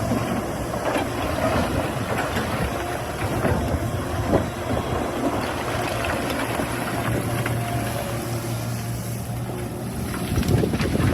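Excavator's diesel engine running steadily, with scattered short knocks and scrapes.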